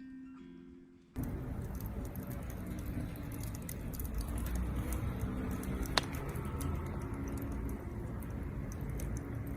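Wood fire crackling in a fire pit: a dense scatter of small sharp pops over a low steady rumble, starting suddenly about a second in. Quiet guitar music fades out just before it.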